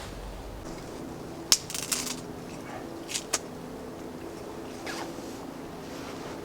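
Handling noise from camp gear: a few sharp rustles and clicks, a cluster about one and a half to two seconds in and two more about three seconds in, over a faint steady hum of several low tones.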